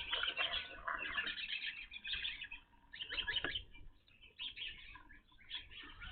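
A flock of evening grosbeaks calling: many short chirps overlapping in busy bursts, with brief lulls between them.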